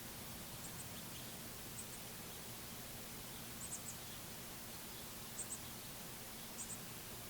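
Faint, short, very high bird chips in twos and threes every second or two, over a steady background hiss.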